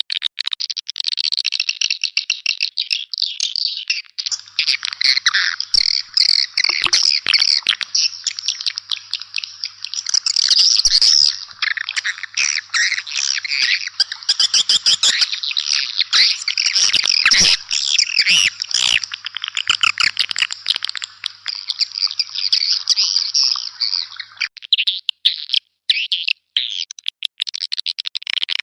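A recording of swiftlet calls: a dense chorus of rapid, overlapping chirps and twitters, the calling sound used to lure swiftlets into a bird house. Near the end the chorus thins into sparser, sharper clicking notes.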